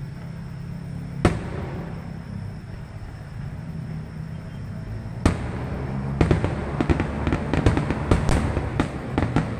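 Fireworks going off: a single sharp bang about a second in, another about five seconds in, then a rapid run of crackling reports near the end, over a steady low rumble.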